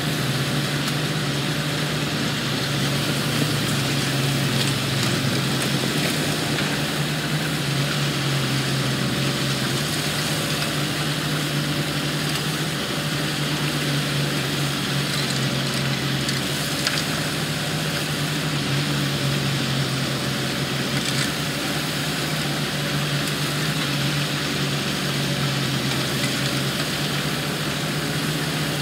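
Diesel engine of construction machinery running steadily, a constant low hum with a few faint clicks.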